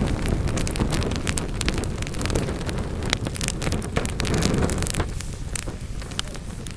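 Wood fire burning in a fireplace, crackling and popping irregularly over a low rumble of the flames. The rumble eases a little near the end.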